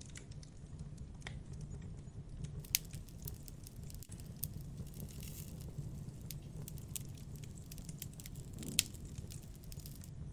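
Wood fire crackling: scattered sharp pops and snaps over a steady low rushing background, with two louder pops about three seconds in and near the end.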